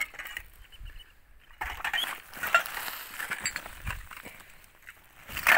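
Pieces of scrap metal clinking and scraping as they are handled and set down, among rustling, with a louder clatter near the end.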